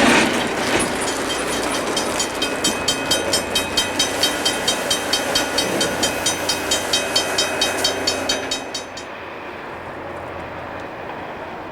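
Rail grinding train passing, its grinding noise overlaid by rapid, regular clicking at about four a second. The sound falls away suddenly about nine seconds in, leaving a quieter rumble.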